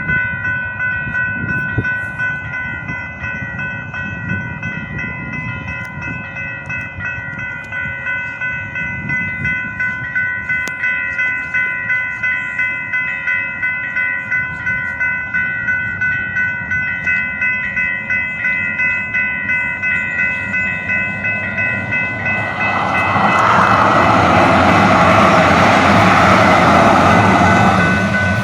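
A train ride: a steady high whine runs under a regular clatter of the wheels over the rail joints, about one and a half beats a second. About 23 seconds in, a louder rush of noise swells and holds for some five seconds.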